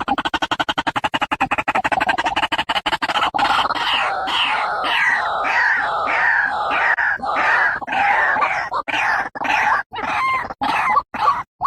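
White-breasted waterhen calling: a fast run of rapid pulses for the first three seconds or so, then a series of repeated ruak-ruak notes about two a second, breaking up near the end.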